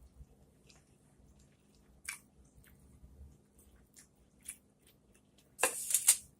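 Close-miked chewing and biting, faint wet mouth clicks and smacks, from a person eating a meal of shrimp, okra and rice. About a second before the end comes a louder, noisier mouth sound lasting under a second.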